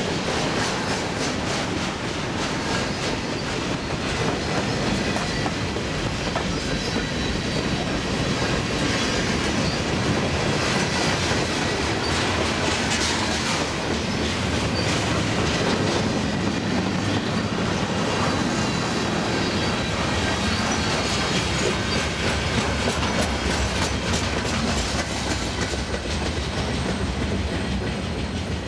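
Freight cars of a long CN freight train rolling past at track speed, their steel wheels clicking rapidly over rail joints, with a faint high wheel squeal above the rumble.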